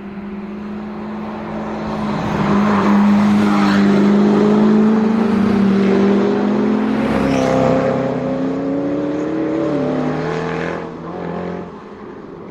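A sports car's engine running. It grows louder about two seconds in, its pitch creeping upward, then drops back and fades near the end.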